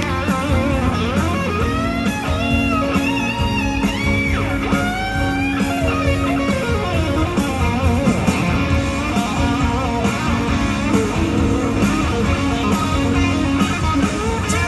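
Live band playing an instrumental break, an electric guitar lead bending and sliding between notes over bass, drums and sustained chords.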